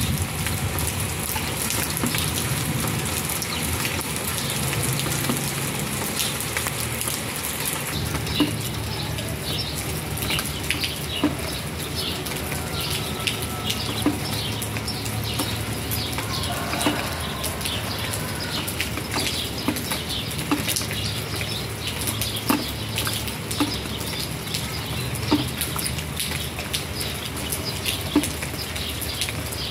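Steady rain falling, sprinkled with small drop ticks. From partway in, a louder single drip lands about every three seconds.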